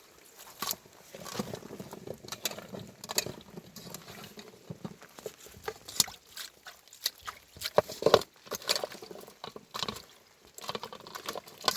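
Irregular light clicks and knocks, several a second, uneven in loudness.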